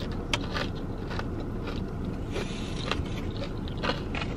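Mouth-closed chewing of a crunchy fried tortilla chip: a few short, crisp crunches scattered over a steady low rumble inside a car.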